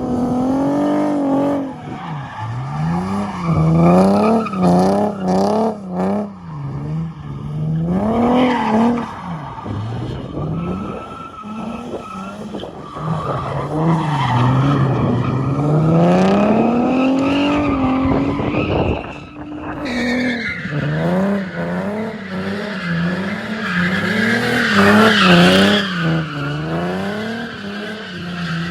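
Nissan 370Z's 3.7-litre V6 through a full ISR exhaust, revving up and down over and over while drifting, with the tyres squealing and skidding.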